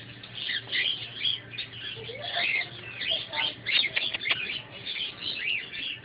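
Small birds chirping rapidly, many short high calls overlapping with no pause.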